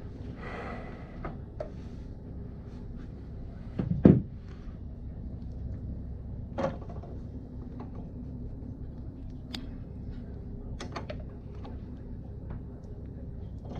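Scattered clicks and knocks of tools and parts being handled, with one loud knock about four seconds in, over a steady low hum.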